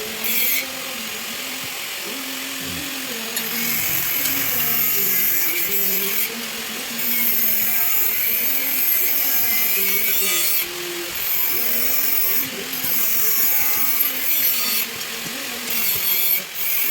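Electric power grinder running and grinding steel, in long passes that break off and restart several times while the motor's pitch dips and rises under load.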